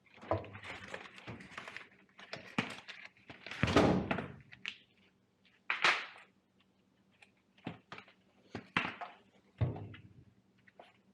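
Irregular thunks, knocks and rustling from an HVAC air filter being swapped, with the filter and its access panel being handled. The loudest bursts come about four, six and ten seconds in, and the one near ten seconds has a short ring.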